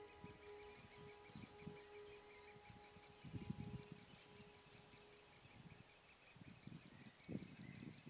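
Faint forest ambience with a small bird repeating a short high chirp at an even pace, about two to three a second. A few soft low thumps and rustles come in partway through and near the end.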